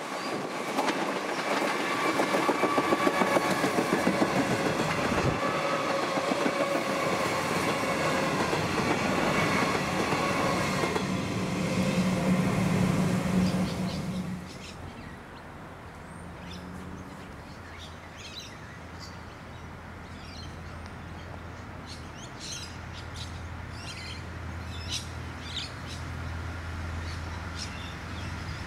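Electric suburban train passing close by, with wheels clicking over the rail joints and a whine from its traction motors. About halfway through the sound cuts to a much quieter low drone of approaching diesel railcars, which gets louder near the end.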